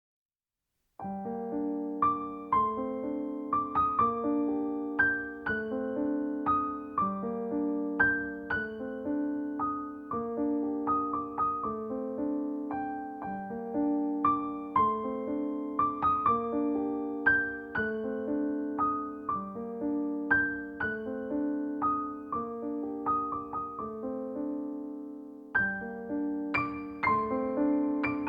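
Gentle solo piano music: repeating broken-chord figures with notes that ring and fade, starting about a second in.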